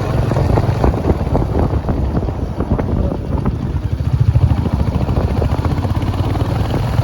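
Royal Enfield Hunter 350's single-cylinder engine running steadily on the move, with wind buffeting the microphone.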